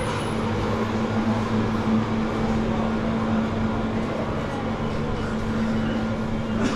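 A steady machine hum, holding one low pitch, over a dense background of noise.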